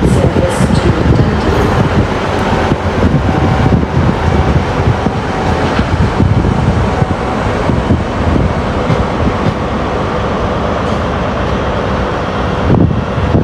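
A train moving on the tracks through the station: a loud, steady rumble of wheels on rail with faint steady tones above it.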